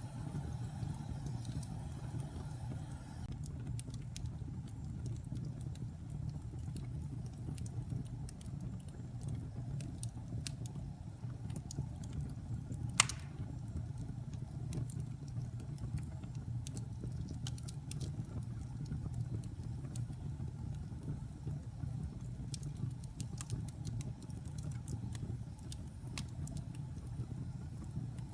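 Wood fire burning in a fireplace: a steady low rumble of flames with scattered small crackles, and one sharp, loud pop about halfway through.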